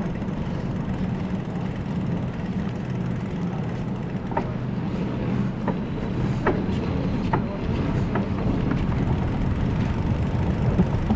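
Steady low rumble of urban waterfront traffic, with a few short sharp sounds between about four and nine seconds in.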